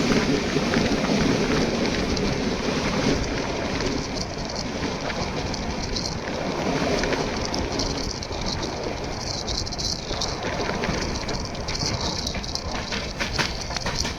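Indian Railways express passenger train running on the rails: a steady rumble and rattle of wheels and carriages, with many short clicks through most of it.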